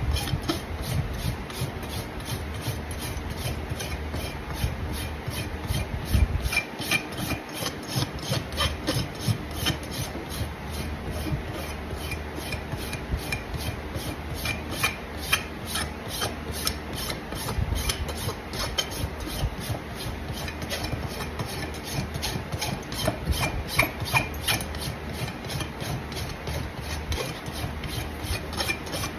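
Farrier's rasp filing a horse's hoof in steady, repeated scraping strokes.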